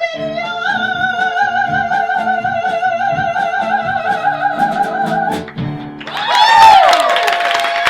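A woman holds the song's final long belted note with vibrato over repeated chords from the band, cutting off about five seconds in. Then the audience cheers and whistles.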